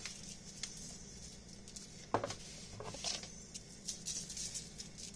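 Salt and pepper being shaken over buttered fish fillets: scattered light pattering and ticking, with a couple of soft knocks a little after two seconds and near three seconds.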